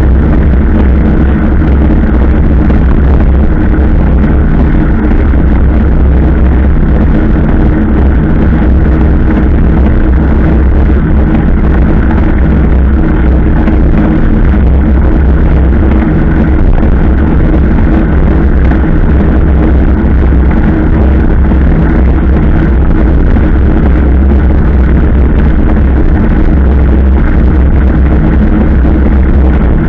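A vehicle engine running steadily while under way, with heavy wind rumble on the microphone.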